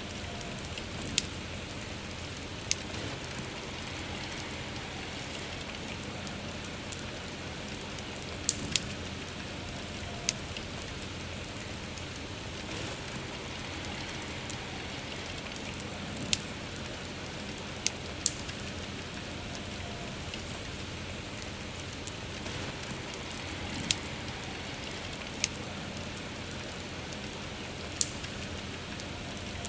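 Steady soft rainfall with a wood fire crackling, its sharp pops coming irregularly every one to several seconds.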